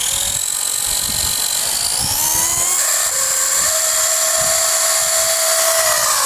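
Electric RC motor and geared drivetrain of a homemade steel RC truck, running with a high-pitched whine that rises in pitch about two seconds in and then holds steady. The noise is still there with a rubber band tensioning the PTO shaft; the owner is pretty sure it comes from vibration of the poorly balanced PTO.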